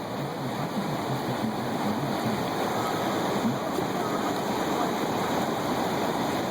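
Rushing water of the flood-swollen Fox River, a steady loud roar of fast-flowing current.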